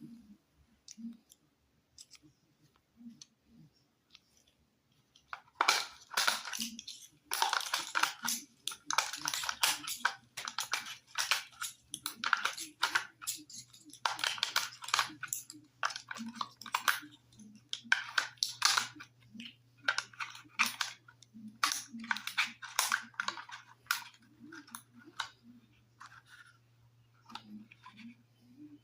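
Sharp mechanical clacks and snaps of an M10 Steambow magazine-fed crossbow being cocked, loaded and shot, a few soft clicks at first, then in quick irregular succession from about six seconds in. A faint steady hum runs underneath.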